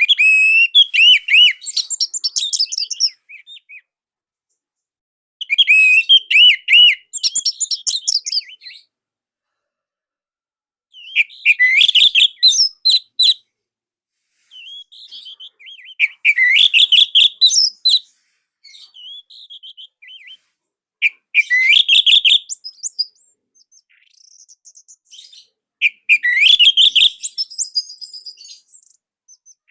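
Orange-headed thrush singing in six loud phrases of rapid, warbling high notes, each about two to three seconds long, with a silent gap of about two seconds between them and a few quieter notes trailing after some phrases.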